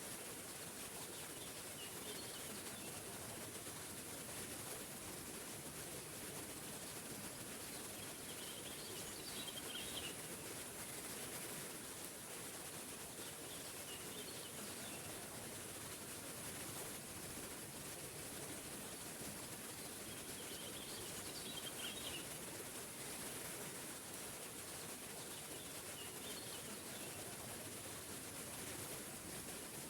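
Small forest waterfall rushing steadily, with a songbird chirping in short bursts of notes about five times.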